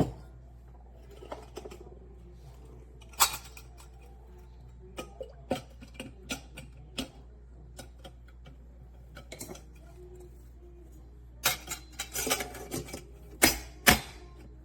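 Scattered metallic clinks and knocks of a small electric coffee percolator with stainless steel lids being handled, with a quicker run of clatter near the end.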